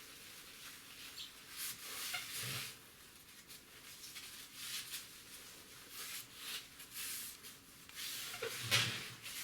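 Toilet paper rubbing over the glass of a fireplace door, wiping it dry: a series of soft, hissy wiping strokes that come and go at irregular intervals.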